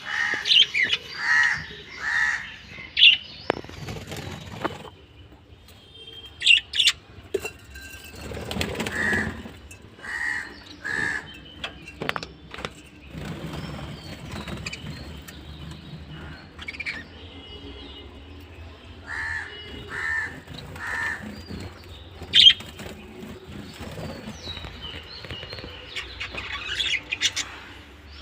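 Pet budgerigars chirping in short repeated calls, with wings fluttering in brief flurries now and then.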